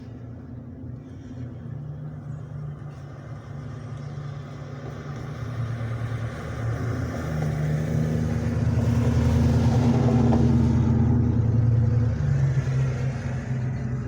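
Motor vehicle engine rumble that builds steadily, loudest about two-thirds of the way through, then eases a little near the end.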